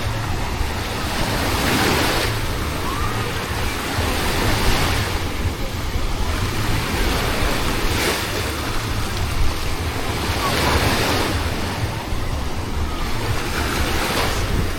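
Sea waves washing onto a shore, each swelling surge of surf arriving about every three seconds, with wind buffeting the microphone.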